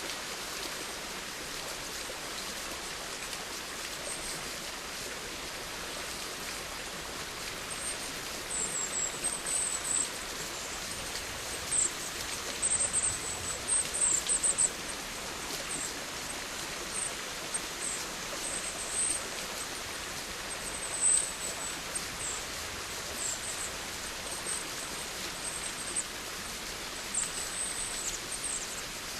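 Steady rain, an even hiss, with bursts of high-pitched chirping that start about a third of the way in and recur until near the end.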